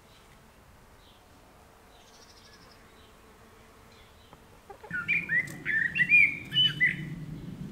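A songbird sings a quick run of curving, chirping notes starting a little over halfway through. A steady low rumble comes in at the same moment. Before that it is quiet, with only faint distant chirps.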